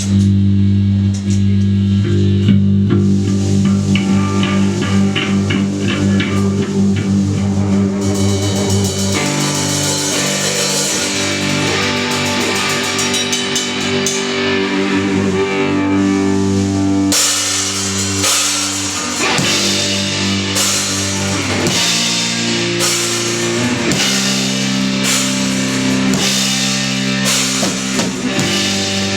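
Live instrumental post-rock from an electric guitar, electric bass and drum kit: held bass and guitar notes under building cymbals, with the drums turning to a fuller, steady beat about halfway through.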